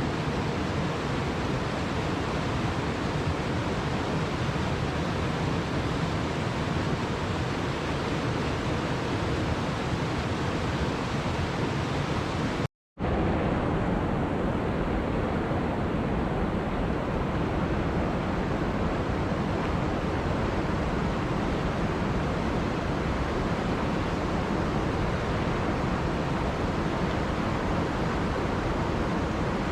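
Waterfall rushing steadily, a loud, even roar of falling water. It drops out to silence for a fraction of a second about thirteen seconds in, then carries on slightly duller.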